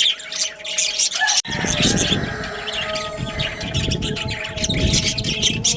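A group of budgerigars chattering with rapid high chirps and warbles. About a second and a half in, a low rumbling noise comes in suddenly under the chirping.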